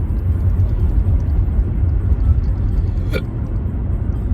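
Car cabin road and engine noise while driving: a steady low rumble, with one brief pitched sound about three seconds in.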